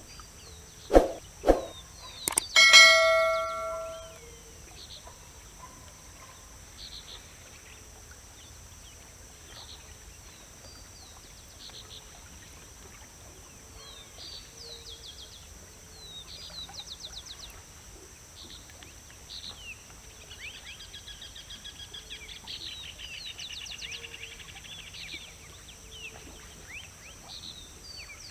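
A few sharp knocks, then a loud bell-like ding that rings out and fades over about a second and a half. After that, many small birds call with short high chirps, and the chirping thickens into a trill for a few seconds near the end, over a steady outdoor background.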